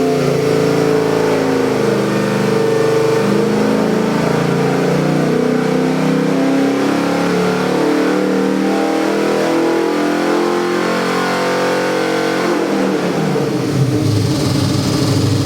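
Ford 408 cubic-inch Windsor small-block stroker V8 with multi-port fuel injection running on an engine dyno, held at high revs for a pull, then dropping back toward idle about thirteen seconds in.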